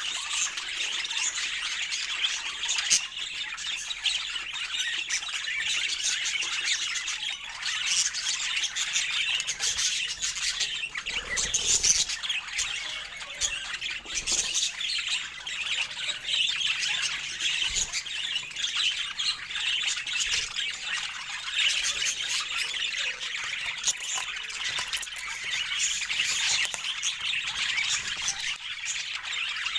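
Budgerigars chattering: a dense, continuous stream of rapid chirps, warbles and squawks.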